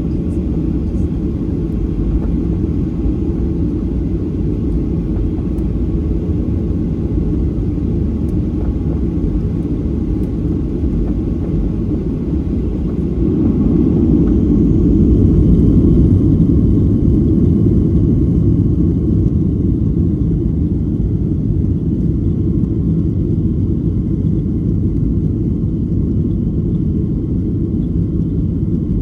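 Boeing 737-800 with CFM56-7B engines heard from inside the passenger cabin: a steady, deep rumble of engines and airframe that swells for a few seconds about halfway through, then settles back.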